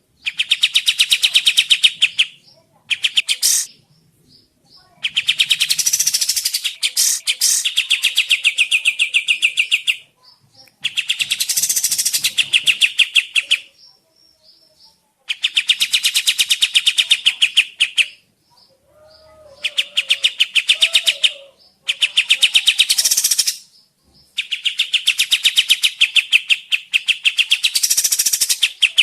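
Sooty-headed bulbul singing in repeated bouts of very rapid rattling notes. Each bout lasts a second to several seconds, with short pauses between them.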